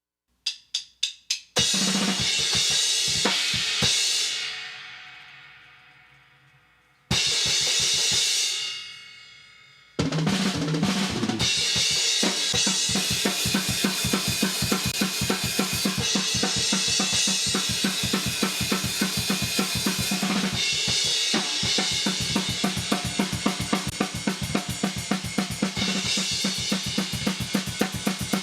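Metal drum kit recording, run through a compressor for comparison. It opens with four quick clicks and two crash hits that ring out and fade, then breaks into fast, steady drumming with rapid, even hits and cymbals.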